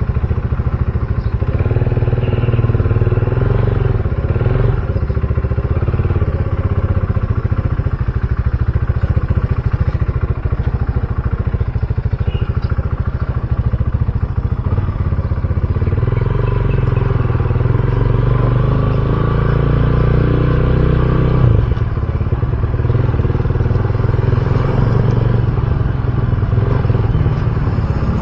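RUSI Classic 250 motorcycle engine running steadily on the move, with wind and road noise. The engine note shifts a couple of times partway through.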